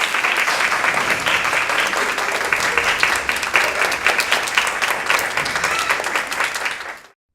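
An audience applauding: many hands clapping steadily, which cuts off abruptly near the end.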